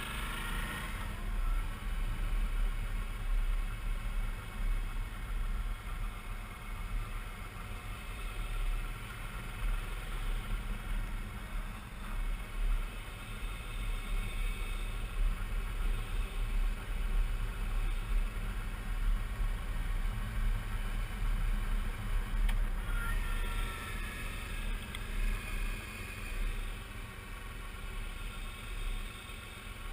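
Suzuki V-Strom 650's V-twin engine running steadily on the move, with heavy wind rumble on the microphone.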